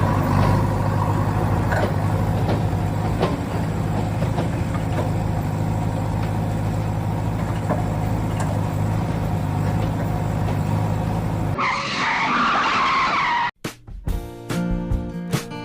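A small motor running steadily with an even low hum, which cuts off about twelve seconds in. A short noisy rush follows, then strummed acoustic guitar music starts near the end.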